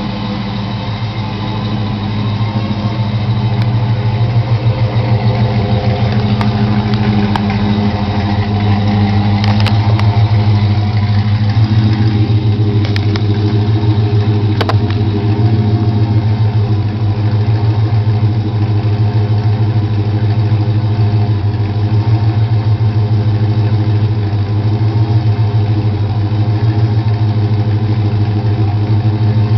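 Holden VN SS's 304 5.0-litre V8, with a Gilmer drive, running steadily through a 3-inch exhaust with a deep, even note. A few light clicks sound around the middle.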